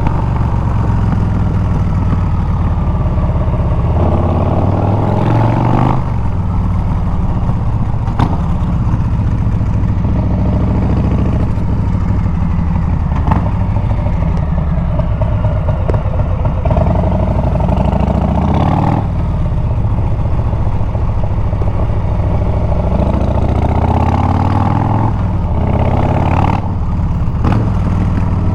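Harley-Davidson Milwaukee-Eight 114 V-twin running through a Bassani straight-pipe exhaust on the move. The engine pitch rises under throttle and drops back several times, as with gear changes and easing off.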